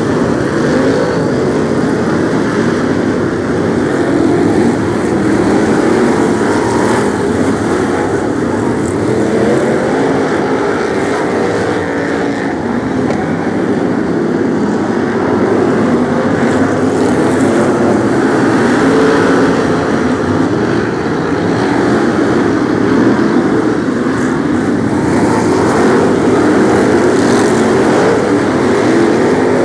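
A pack of BriSCA F1 stock cars racing, their big V8 engines running together in a loud, continuous mass of sound, with many engine notes rising and falling as the cars pass and change speed.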